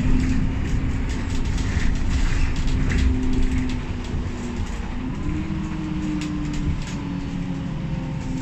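Inside an Alexander Dennis Enviro500 MMC double-decker bus on the move: the drivetrain runs with road rumble and a steady whining tone, the 'airplane sound' that is loud on this bus. The whine shifts in pitch about five seconds in.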